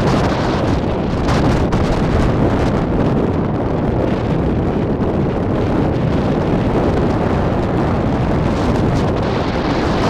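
Strong wind buffeting the microphone on a coastal cliff, a loud, steady rumble of noise.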